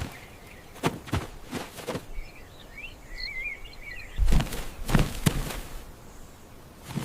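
Scattered soft thumps and rustles, several in quick succession, with a short burst of high, warbling bird-like chirping about two to four seconds in.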